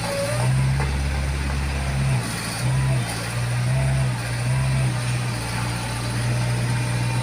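Backhoe's diesel engine working under changing load, swelling and easing every second or so as the machine hauls itself up onto a truck bed without a ramp.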